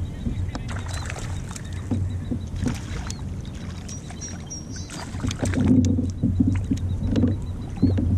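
Kayak on the water: a steady low hum from the hull and its drive, with scattered knocks and water noise against the hull.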